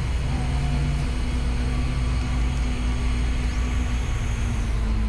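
Motor vehicle engine running: a steady low hum whose pitch shifts a little, over road noise.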